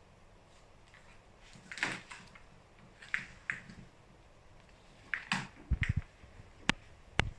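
Handling noises: scattered rustling with a few low knocks, then two sharp clicks near the end.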